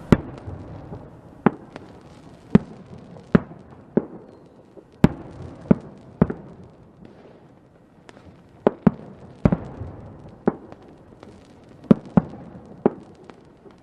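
Fireworks exploding: about fifteen sharp bangs at irregular intervals, some in quick pairs, each trailing off in a short echo, over a low steady background.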